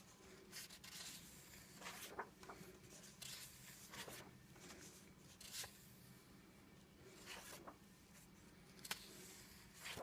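Faint, scattered rustles of vellum paper pages being turned and handled in a coloring book, with a few soft clicks.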